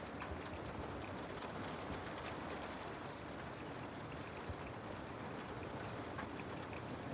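Steady rain, an even hiss with scattered small drop ticks.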